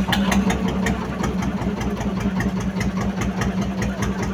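Engine idling steadily: a low, even hum with a light ticking clatter a few times a second.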